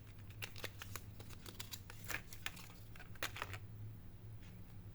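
Small clicks and rustles of laptop SO-DIMM RAM modules being handled, scattered irregularly and thinning out near the end, over a faint low hum.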